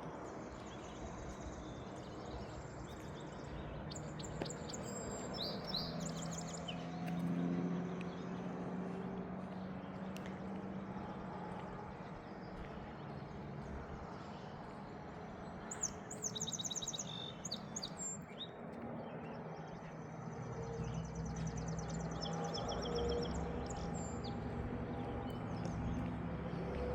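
Songbirds chirping and singing in short trills, in several separate bouts. A steady low hum runs underneath and grows louder in the last few seconds.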